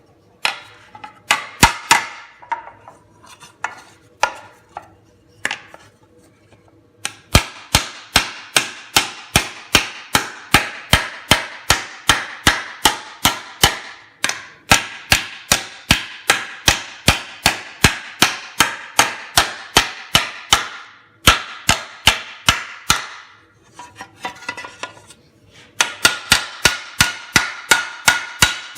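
Body hammer striking sheet metal over a dished Delrin plastic shrinking stump: a few scattered blows, then a long run of quick, even blows, about three to four a second, stopping briefly twice. The metal is being stretched into a tight, curling radius.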